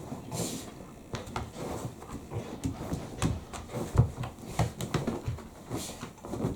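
Shiba Inu dog digging fast at a futon and sheets with its front paws: rapid, irregular scratching and soft thumps, with bursts of fabric rustling.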